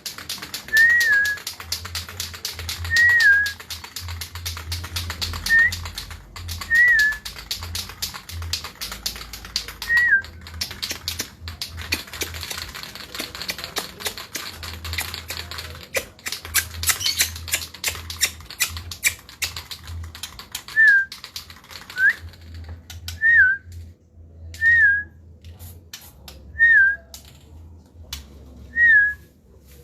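White-rumped shama giving a short whistled note that rises and falls, repeated about every two seconds, over a fast, dry run of clicking chatter that thins out near the end.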